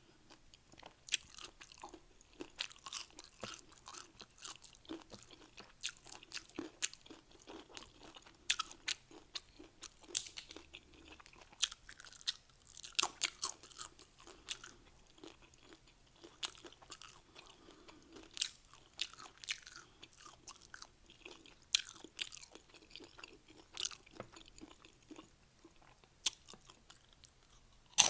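Close-up chewing and crunching of Doritos tortilla-chip nachos, with irregular sharp crunches and softer wet chewing between them.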